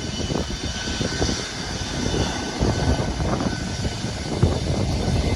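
A propeller airplane's engine running steadily, with an uneven low rumble under it.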